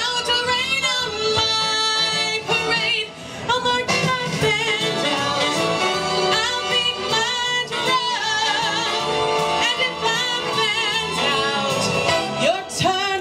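A woman singing a Broadway show tune live in a belting voice, with wavering vibrato on held notes, over instrumental accompaniment.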